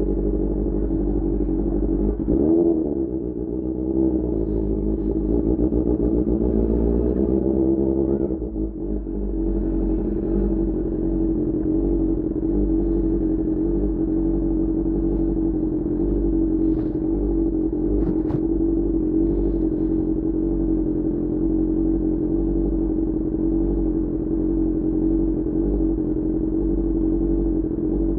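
QJMotor SRK600 motorcycle engine running through an Austin Racing GP1R exhaust while riding. The engine note changes about two seconds in and dips briefly at about eight and a half seconds, then holds steady.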